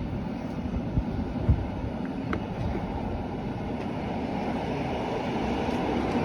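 Rhaetian Railway regional train running, a steady rumble of wheels on track with a couple of short knocks about a second in.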